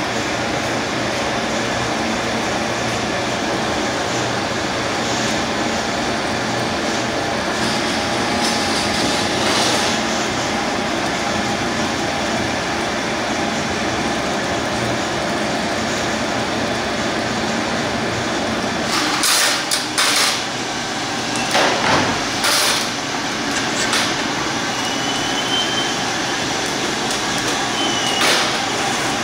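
Steady mechanical running noise, with a few sharp clatters about twenty seconds in and again near the end.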